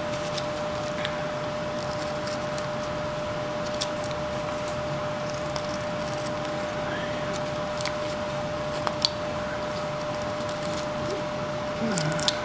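A hand carving tool paring wood in short cuts. The few faint clicks and scrapes sit over a steady hiss and a constant hum.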